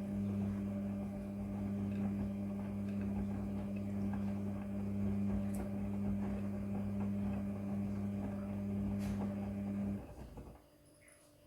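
Midea front-loading washing machine giving off a steady electrical hum, as from its pump or water valve, with faint clicks over it; the hum cuts off suddenly about ten seconds in.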